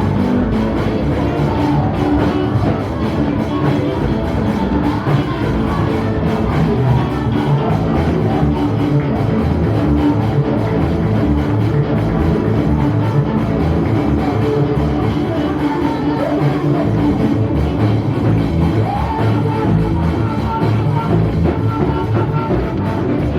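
Live band music with drums and guitar, loud and steady.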